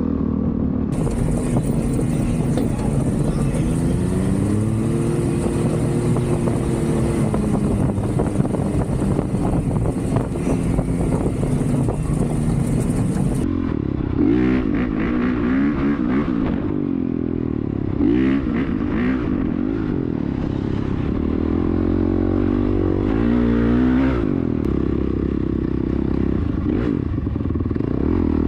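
Off-road vehicle engine running and revving up and down over and over, with a low wind rumble on the microphone. The sound changes abruptly about halfway through.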